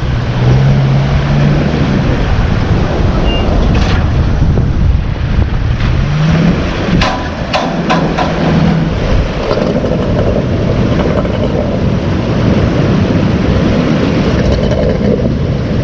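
Wind buffeting the microphone over surf, with a boat engine running, its low hum coming and going. A few sharp knocks about seven seconds in.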